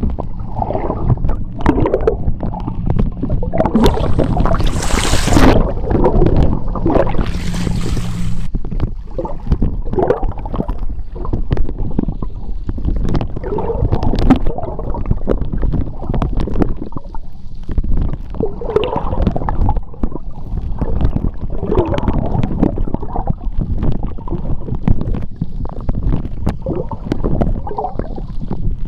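Sea water heard underwater: a continuous low rumbling, sloshing gurgle with soft swells, and two brief hissing rushes of bubbles about four and seven seconds in. A faint low steady hum sits underneath until about eight seconds in.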